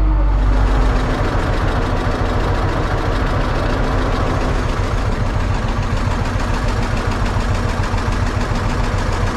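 Antique tractor engine running hard under heavy load as it pulls the weight sled down the track, a loud, steady, rapid firing beat.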